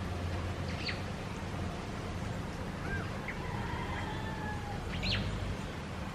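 A few short bird chirps and quick downward-sweeping call notes over a steady low background rumble.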